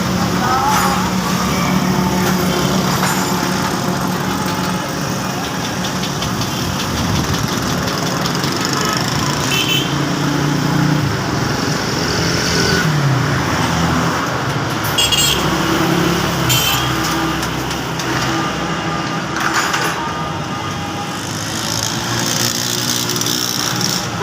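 Ford 4610 tractor's three-cylinder diesel engine running steadily, its pitch shifting a few times as the engine speed changes.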